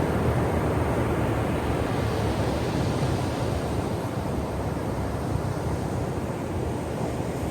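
Ocean surf on a shore: a continuous rush of breaking and washing waves that eases slightly after the first few seconds.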